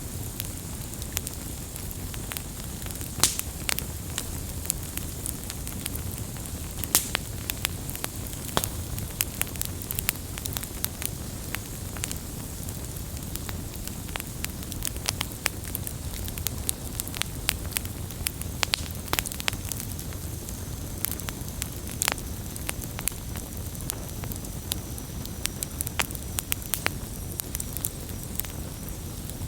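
Wood campfire burning: a steady low rumble and hiss of flame with frequent irregular crackles and occasional louder pops.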